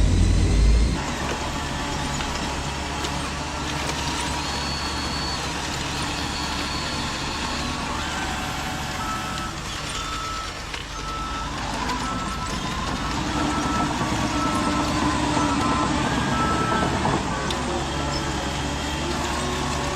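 Vehicle reversing alarm beeping at about one beep every three-quarters of a second for several seconds in the middle, over steady running vehicle noise; a louder low rumble stops about a second in.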